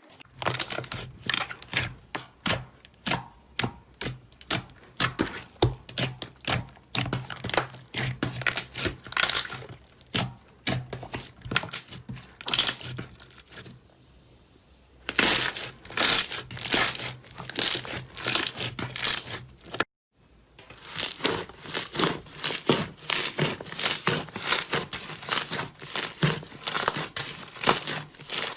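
Slime being squeezed, poked and stretched by hand, giving rapid crackling pops and clicks several a second. There is a quieter stretch about halfway through, and a short dropout a few seconds later before the crackling resumes.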